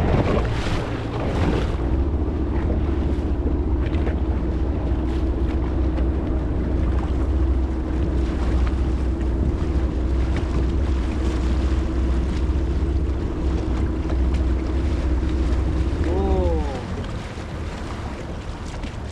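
Motorboat engine running steadily under way, with wind noise on the microphone; near the end the engine note falls and it runs quieter as the throttle is pulled back.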